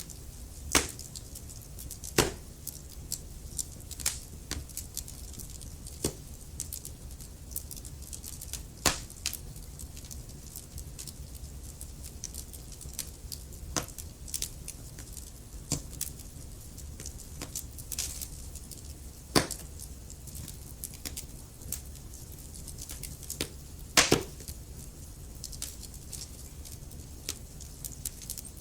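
Wood fire in a fireplace crackling: irregular sharp pops and snaps, a few loud ones standing out, over a steady low rumble of the flames.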